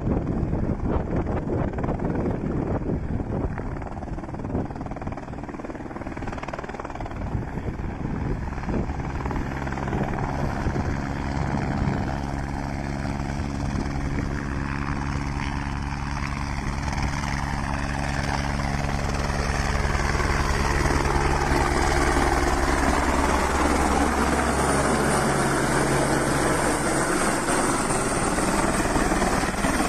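Helicopter rotor and engine running steadily, louder in the second half, with a sweeping rise and fall in tone.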